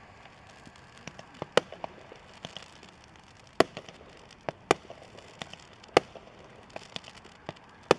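Fireworks popping and banging at an irregular pace: five or so sharp, louder reports among many lighter pops and crackles.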